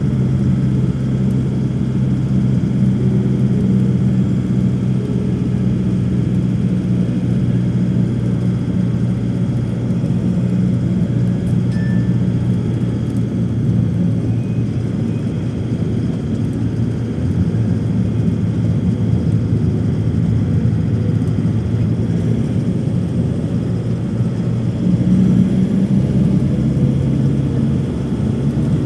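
Steady drone of an airliner's engines heard from inside the cabin in flight, a constant low hum with an even rush of air over it.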